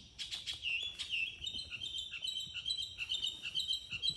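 A songbird singing a quick run of high, repeated chirps and trills, with a few short clicks just at the start.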